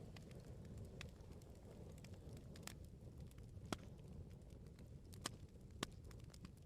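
Wood bonfire crackling: a low steady rumble of flames with irregular sharp pops and snaps from the burning firewood, about one a second, the sharpest a little past halfway.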